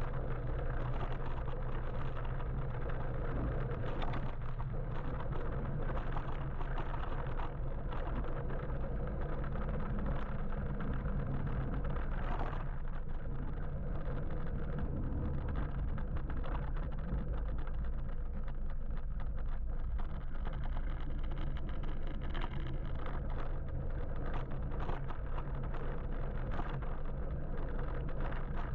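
Steady road and traffic noise heard from a moving electric motorbike, with a constant low rumble of wind on the microphone.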